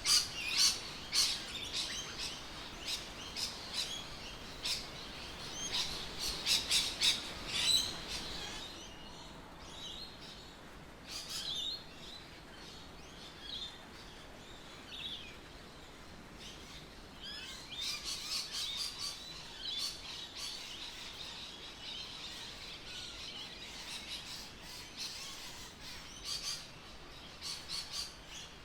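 Birds chirping and calling, with quick runs of high chirps that come thickest in the first several seconds and again a little past the middle, and scattered calls between.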